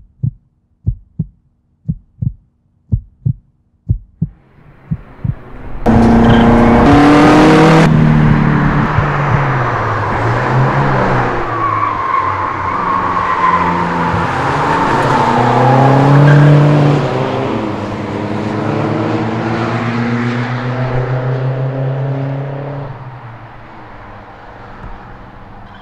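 A run of short, evenly spaced low thumps, then two cars at speed on a track. The turbocharged four-cylinder engines of a Saab 900 Turbo 16 S and a VW Golf GTI rise and fall in pitch again and again as they rev and shift, and the sound dies down near the end.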